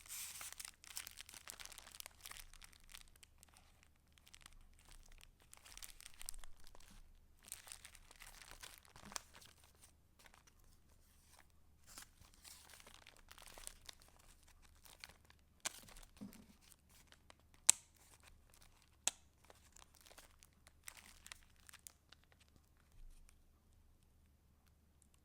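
Paper pages of a handmade junk journal being turned and handled, with soft rustling and crinkling that is busiest in the first half, then a few sharp ticks before it goes nearly quiet near the end.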